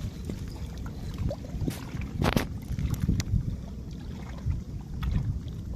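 Small boat on the river: a low rumble of water and wind, with a few sharp knocks, the loudest about two seconds in.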